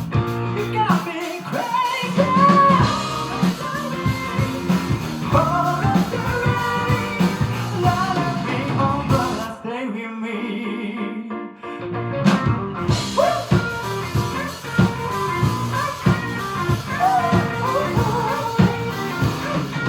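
Live band performance: a singer's voice over drum kit, bass and electric guitar in a steady beat. About halfway through, the drums and bass drop out for roughly two seconds, then the full band comes back in.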